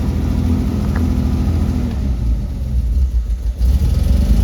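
1966 Austin Healey 3000 BJ8's 2.9-litre straight-six engine idling steadily just after a cold start with no choke, running happily with good oil pressure.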